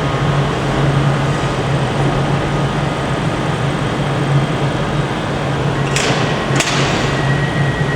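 Diesel engines of a pair of ScotRail Class 156 units idling with a steady low drone at the platform. Two sharp knocks come about six seconds in, half a second apart.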